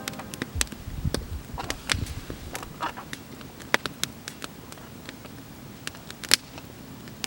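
Wood campfire crackling, with irregular sharp snaps and pops over a low hiss; two louder pops stand out, one near the middle and one near the end.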